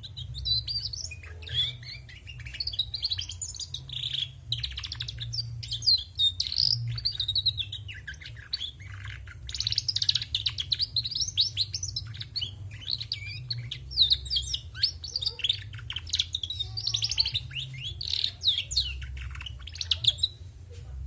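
Female domestic canary twittering in rapid runs of high chirps and trills, coming in bursts with short pauses. This is the busy hen chatter that shows such twittering does not by itself mark a canary as male.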